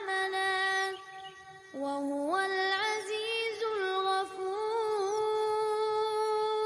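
A single voice sings long, held notes with ornamented turns and slight wavers in pitch, pausing briefly about a second in. No instruments are heard with it.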